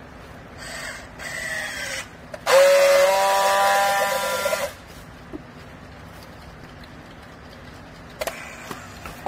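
Hydraulic scrap cloth baler running, with two whining stretches and a hiss. The first whine is shorter and falls slightly in pitch. The second is louder and steady for about two seconds, then cuts off suddenly.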